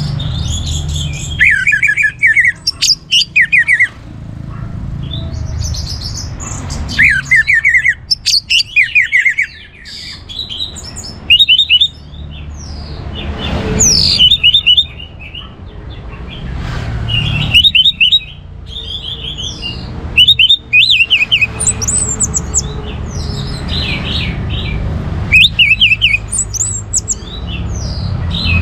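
Orange-headed thrush (anis merah) singing: bursts of rapid, repeated high notes every couple of seconds.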